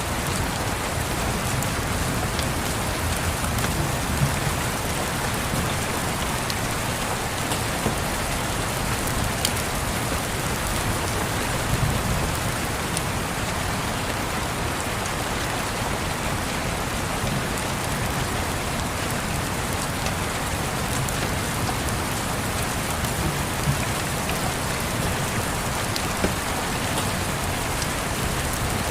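Steady rain, an even hiss with scattered sharp ticks and a low rumble that swells now and then.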